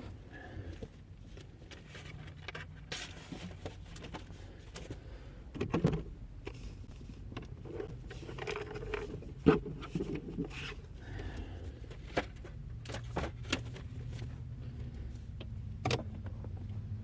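Scattered clicks, knocks and rustling from keys and belongings being handled inside a parked car, over a low steady hum.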